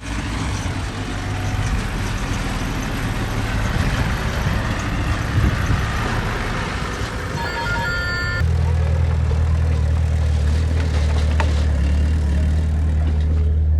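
Heavy diesel earthmoving machinery running steadily, the deep engine note of a bulldozer or dump truck. A brief high-pitched squeal comes about seven and a half seconds in, and about eight seconds in the sound switches abruptly to a steadier, deeper engine drone.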